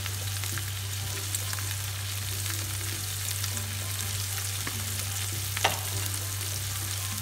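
Shrimp, onion and garlic frying in butter in a stainless steel pan: a steady sizzle over a low steady hum, with one sharp click about five and a half seconds in.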